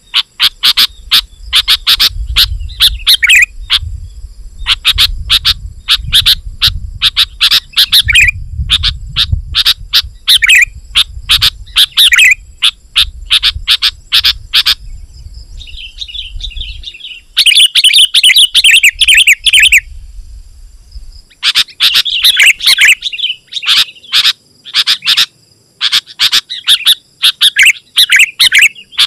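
Sooty-headed bulbul singing loudly and nonstop, in phrases of fast, closely packed notes separated by short pauses.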